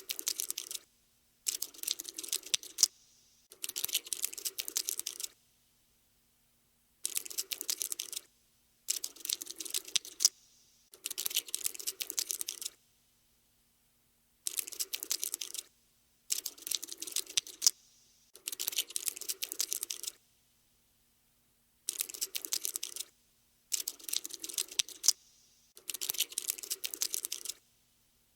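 Scuttling sound effect of a cockroach's legs skittering: rapid dry clicking in bursts of about a second each, in groups of three, with short, completely silent pauses between the groups.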